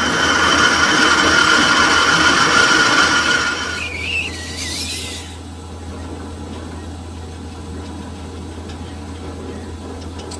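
Metal lathe cutting, its tool squealing in steady high tones for about three and a half seconds, then a brief wavering whine as the cut ends, leaving the lathe's steady low motor hum.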